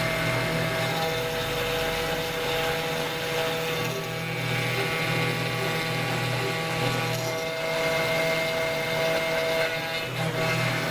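CNC router spindle running with a steady whine while its bit cuts acrylic resin, the cutting noise shifting a few times as the tool moves.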